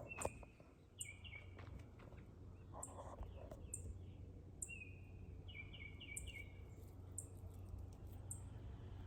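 Small birds chirping: short quick chirps in groups of three or four, come twice, with thin very high notes now and then, over a steady low background hum.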